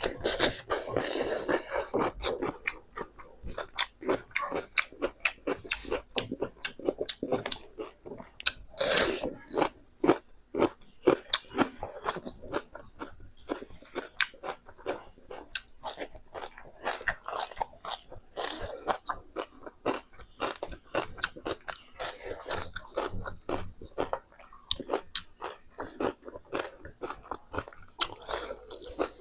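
Close-miked mukbang eating: a person chewing and biting pork, with a dense, irregular run of crunches and wet mouth clicks. Heavier crunching bursts come about a second in and again about nine seconds in.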